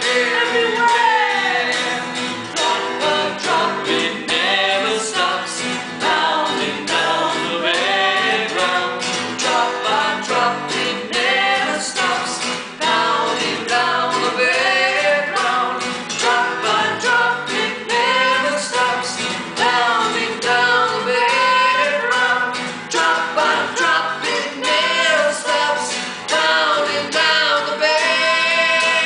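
Two voices, a woman's and a man's, singing a repeated line in layered, overlapping harmony, each climbing to a higher harmony note in turn.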